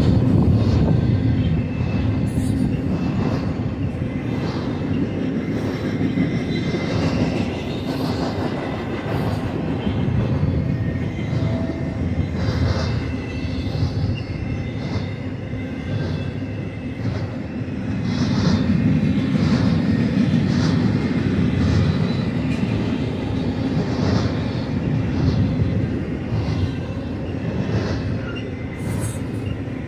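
BNSF intermodal freight cars loaded with truck trailers rolling past at speed: a steady rumble of steel wheels on rail, with regular clacks as the wheel sets pass over the rail joints.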